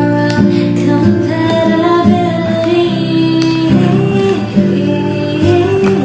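Acoustic guitar playing with a female singing voice: a soft pop cover song.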